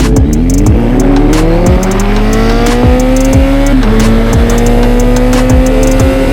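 Kawasaki Z900's inline-four engine pulling under throttle, its pitch climbing steadily for about three and a half seconds. An upshift then drops the pitch, and it starts climbing slowly again. Music plays underneath.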